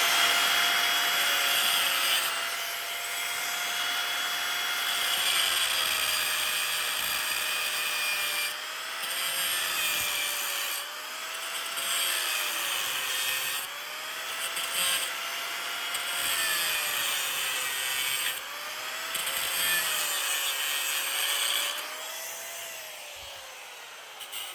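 Electric power tool running continuously and cutting into metal. Its motor tone sags and recovers again and again as it is pressed into the work and eased off, over a harsh hiss of abrasion.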